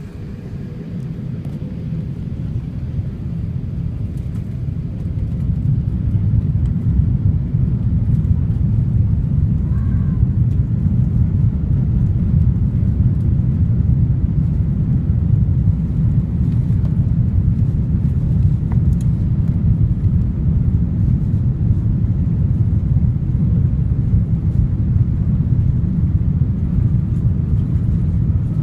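Cabin noise of an Airbus A380's four Rolls-Royce Trent 900 engines as heard from an upper-deck seat. It grows louder over the first several seconds as the engines spool up to takeoff thrust, then holds a steady, loud, deep rumble.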